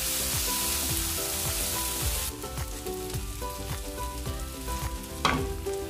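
Food sizzling in a hot oiled pan as a tomato and chili mixture fries with chicken, onions and garlic; the sizzle drops away sharply about two seconds in. Background music with a steady beat plays throughout.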